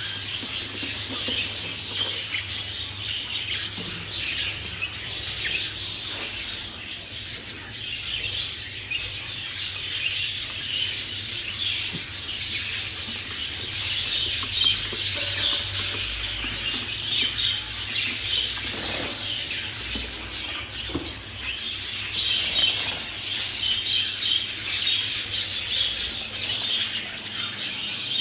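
Many budgerigars chirping and chattering continuously, a dense overlapping flock chatter.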